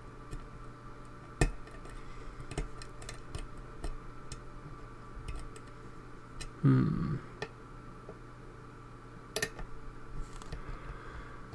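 Small metallic ticks and clicks of a lock pick working the pins of a pin-tumbler lock held under tension, scattered irregularly. A short low sound comes about two-thirds of the way through, and a sharper click a little later.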